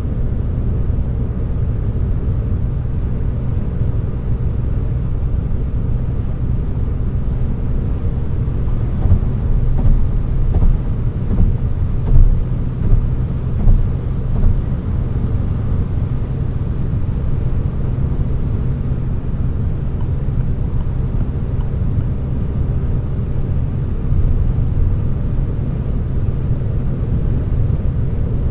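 A 2018 Peugeot 308's 1.6 BlueHDi four-cylinder turbodiesel and its tyres running on the road, a steady low rumble, with a few louder bumps between about nine and fourteen seconds in.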